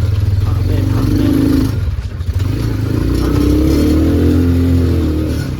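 Motor vehicle ride noise: a steady low rumble with an engine note that rises briefly about a second in and again for a couple of seconds past the middle.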